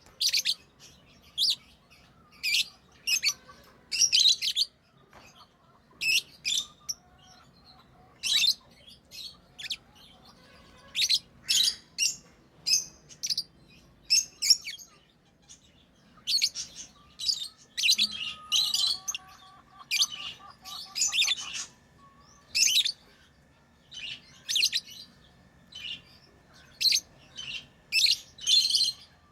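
Pet lovebirds chirping: many short, sharp high-pitched chirps in irregular clusters. A faint steady tone joins a little past halfway.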